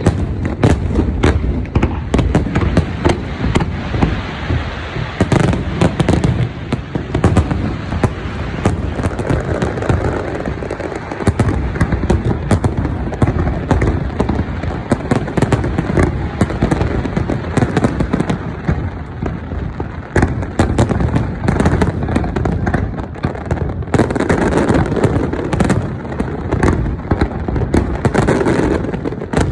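Fireworks going off in rapid succession: a dense, continuous barrage of bangs and crackles with no pause.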